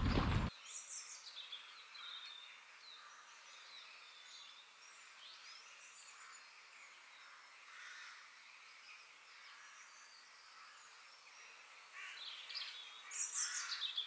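Faint birdsong: scattered short chirps and calls, more of them near the end. A louder noise at the very start cuts off about half a second in.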